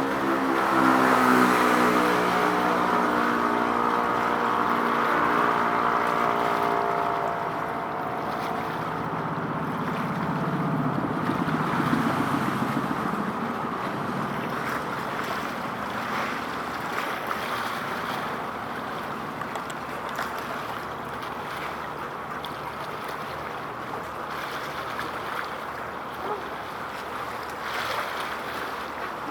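A boat's engine passing close by, its drone strongest at first and dying away over the first several seconds, with a brief swell about ten seconds in. A steady rush of wind and water follows.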